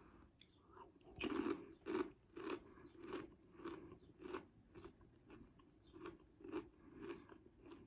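Doritos 3D Crunch chili cheese nacho puffed corn chips being bitten and chewed, crunching in a steady rhythm about twice a second, starting about a second in.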